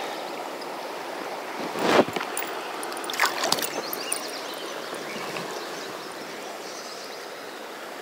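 Rushing current of the South Fork Snake River flowing steadily around a wading angler. There is a louder rushing swell about two seconds in and a few short, sharp sounds a little after three seconds.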